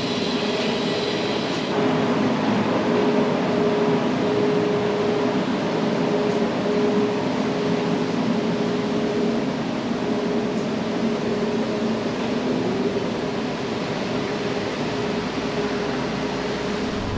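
Motorcycle engine running at a steady speed while riding, mixed with wind and road noise.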